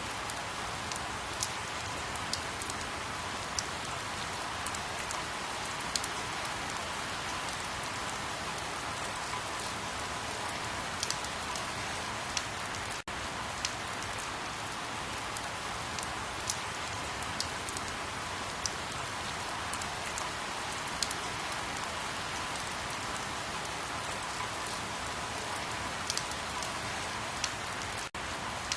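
Steady rain falling, an even hiss with scattered sharp drop ticks. The sound cuts out for an instant twice, about halfway through and near the end.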